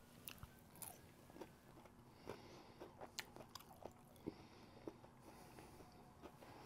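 Very faint chewing of a bite of fried bull testicle, with scattered small clicks. A faint wailing tone rises and then falls away in the first two seconds.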